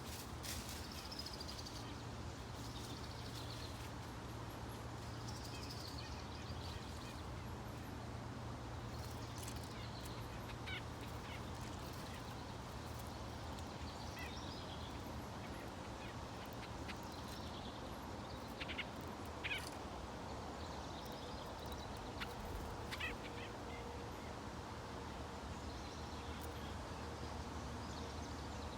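Wild birds calling and chirping now and then over a steady low hum, with a few sharper, louder calls past the middle.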